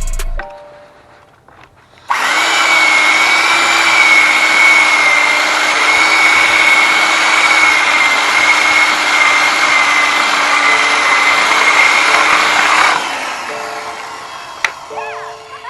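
An electric power tool runs steadily at one speed for about eleven seconds, then winds down.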